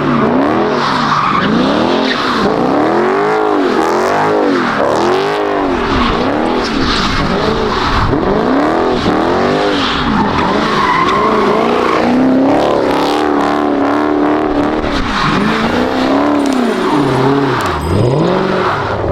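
V8 muscle car doing donuts with its tyres squealing, the engine's pitch rising and falling in a repeating pattern about once a second, then holding steadier for a couple of seconds before a final rise and fall near the end.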